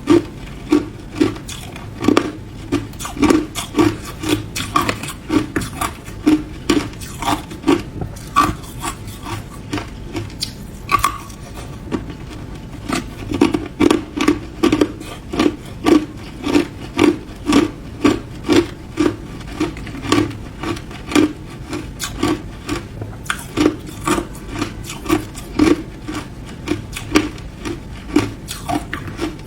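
Ice being chewed, close up: hard crunches of ice breaking between the teeth, about two a second, keeping up steadily.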